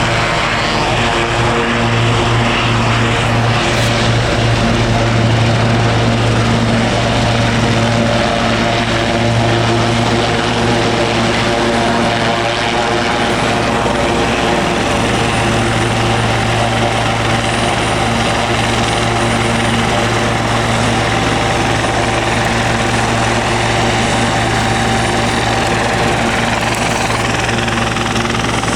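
Helicopter running steadily, a loud continuous low hum with a stack of steady tones above it and no rise or fall.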